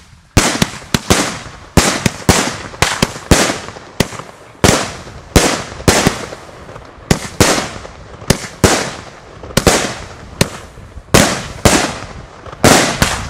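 Ground-standing fireworks battery (cake) firing a rapid string of loud bangs, about two a second at uneven spacing, each with a short echoing tail.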